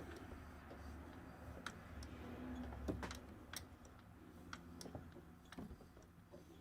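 Consew 206RB-2 walking-foot industrial sewing machine being turned slowly by hand: faint, irregular clicks and ticks from its feet and linkages, roughly one every half second to second, over a low hum.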